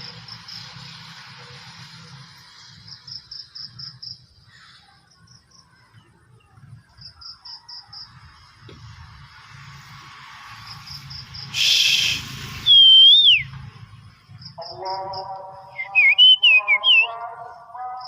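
Oriental magpie-robin giving loud, clear whistled notes that glide up and down, with a harsher chatter beneath them in the last few seconds. A short, high pulsed trill recurs every few seconds, and about 12 s in there is a brief loud rush of noise.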